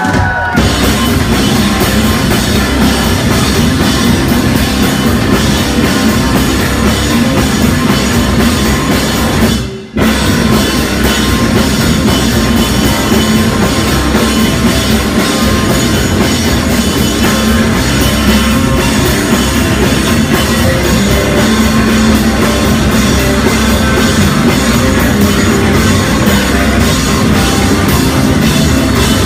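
Live rock band playing loudly, with the drum kit to the fore. The sound drops out abruptly for a moment about ten seconds in, then the band carries on.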